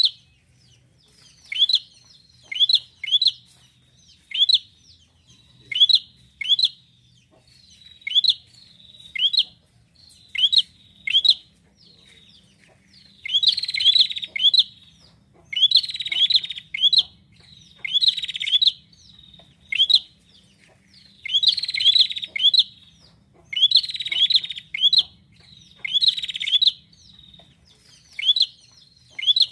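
Prinia (prenjak) calling: sharp, loud, falling notes repeated in quick pairs about once a second. Through the middle stretch these are mixed with bursts of buzzy chatter.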